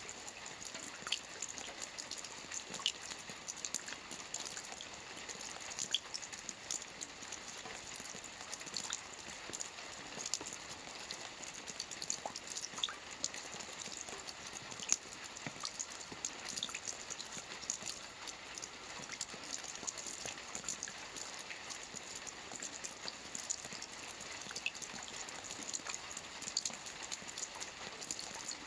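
Soft rain falling on a roof: a steady hiss with many small scattered drop taps.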